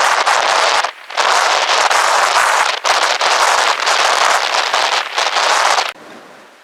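Ground-blizzard wind buffeting the microphone as a loud, gusty hiss. It breaks off briefly about a second in and drops away sharply near the end.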